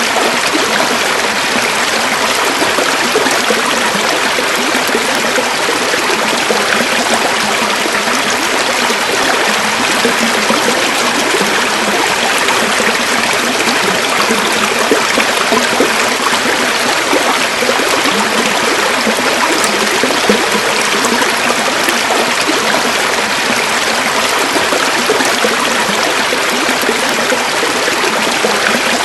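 River water flowing over stones, a steady rushing and burbling with no letup.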